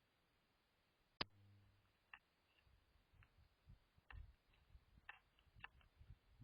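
A single sharp click about a second in, followed by scattered light taps and clicks with soft low thumps, all faint.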